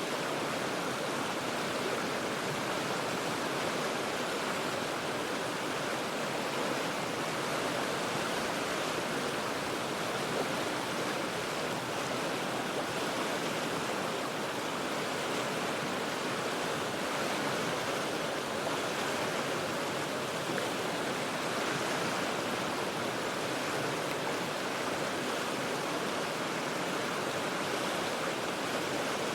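River water rushing steadily over rocks, a continuous even roar of rapids.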